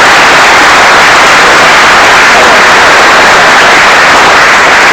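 Audience applauding loudly: a dense, even clatter of many hands clapping.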